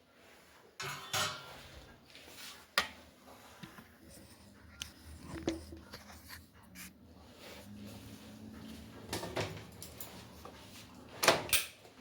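Scattered clicks and knocks, about half a dozen, from a microwave oven door being opened and a cake dish being lifted out and set down. The loudest knock comes near the end.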